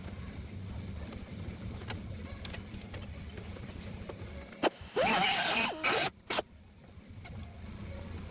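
A metalworking tool used on car body sheet metal: a steady low hum, then about halfway through one loud hissing burst of under a second, followed by two very short bursts.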